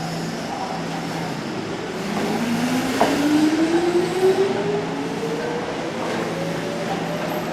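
Hankyu electric train pulling away from the platform: the motor whine rises steadily in pitch over the rumble of wheels on rail, with a sharp click about three seconds in.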